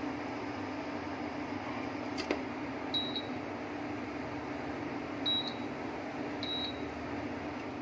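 Steady low hum with hiss, like a running machine, under a kitchen scene. There is one click a little over two seconds in and three short high beeps later on.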